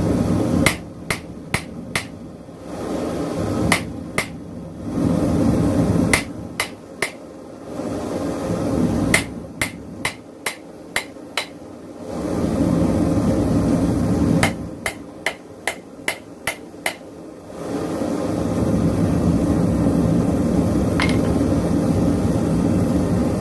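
Hand hammer striking a hot railroad spike on an anvil while forging it into a knife: sharp blows in quick groups of a few strikes, about two to three a second. Between the groups a propane forge runs with a steady rushing noise.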